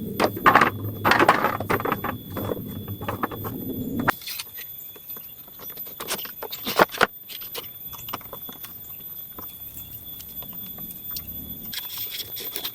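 Rustling and snapping of leaves and sticks being handled. There is a dense rustle with many sharp clicks for about four seconds that stops abruptly, then scattered clicks and light rustles.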